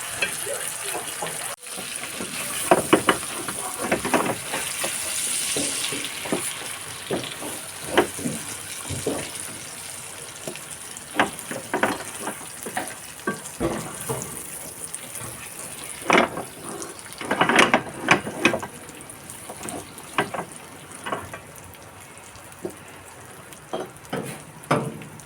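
Food frying in hot oil, a steady sizzle with irregular crackles and sharp clicks of utensils against the pan.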